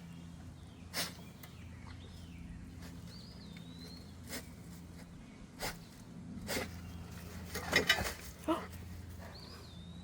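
A dog sniffing and snuffling around in short, scattered bursts, the loudest cluster about eight seconds in, over a steady low hum. A couple of brief high warbling chirps come about three seconds in and again near the end.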